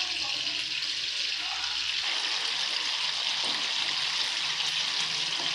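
Chicken pieces sizzling steadily in hot oil in a frying pan, a constant hiss with fine crackles as the liquid left in the pan boils off over raised heat.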